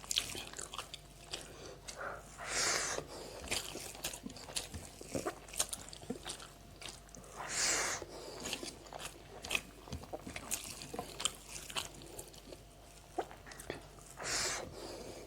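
Close-miked eating: a person chewing and biting food with wet mouth clicks, plus three longer, louder noisy sounds about 2.5, 7.5 and 14.5 seconds in.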